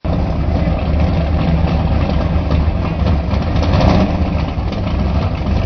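Twin-turbo Plymouth Road Runner's V8 idling steadily.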